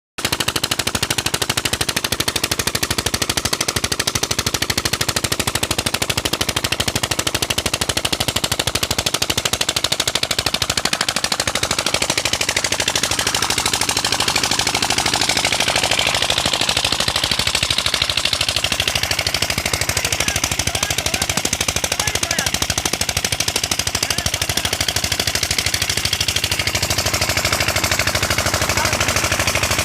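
Tubewell diesel engine running fast, its exhaust beating in a rapid, even chug that holds steady throughout.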